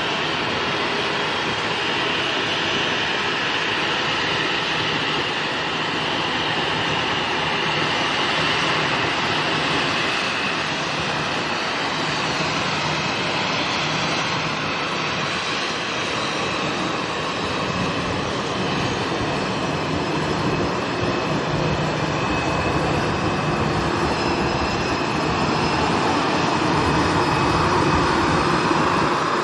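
Airliner engines running steadily, with a faint high whine over a broad rush, getting a little louder near the end.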